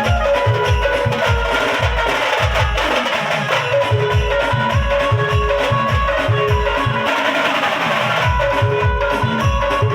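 Banjo party band music played loud over a DJ sound system: a driving percussion beat with heavy bass thumps about four times a second under a held keyboard or banjo melody. The bass thumps drop away about three and a half seconds in, while the drums carry on above, and they return near the end.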